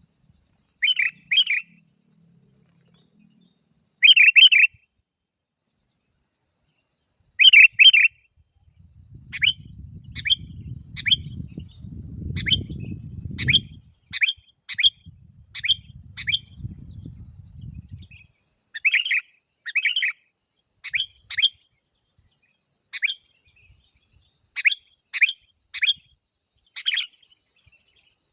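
Sooty-headed bulbul calling: short bubbly phrases of a few quick notes every few seconds, then a long run of sharp single chirps, roughly two a second. A low rumble sits underneath for several seconds midway.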